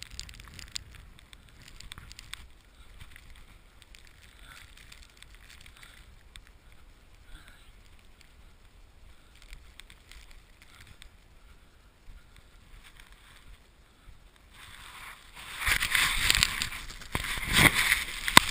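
Footsteps crunching slowly through deep snow, faint and uneven. For the last few seconds a much louder rough rustling and rubbing takes over on the microphone.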